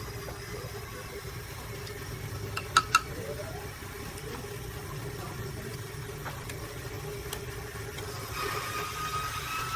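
A machine running with a steady hum, two sharp clicks about three seconds in, and a tone that starts near the end and rises slowly in pitch.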